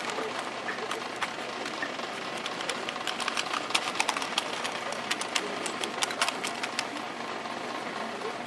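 Drill team performing: scattered sharp clicks and knocks of rifles and boots, irregular and at times several a second, over a low murmur of spectators.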